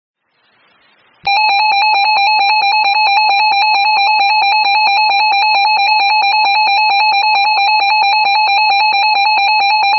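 Emergency Alert System attention tone: a loud electronic tone held at one pitch, with a fast even flutter, starting about a second in. It signals a severe thunderstorm warning.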